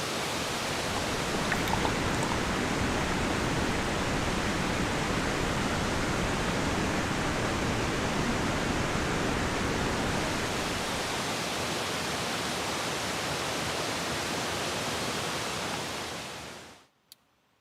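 Steady, dense hiss of heavy rain, which fades out to near silence shortly before the end.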